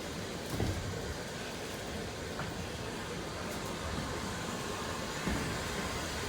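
Steady running noise of a heritage railway train in motion, with a few faint knocks.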